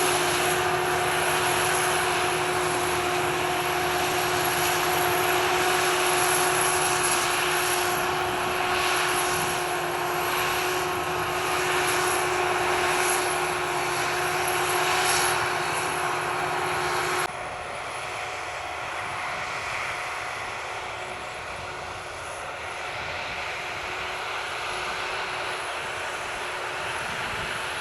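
Sakpattana KM-D#1 rice combine harvester running while harvesting paddy: a steady machine drone with a thin high whine. About two-thirds of the way through the sound drops suddenly to a quieter, duller level.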